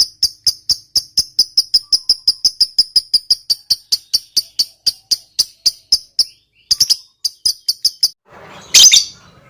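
Lovebird ngekek: a long run of rapid, shrill chirps, about six a second. It breaks off after about six seconds, resumes briefly, and is followed near the end by one louder, harsher call.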